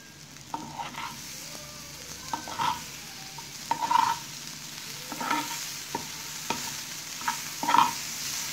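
Masala-coated bitter gourd slices sizzling in oil in a frying pan, with a spatula scraping and tapping against the pan about once a second as they are stirred and turned. The slices are well fried.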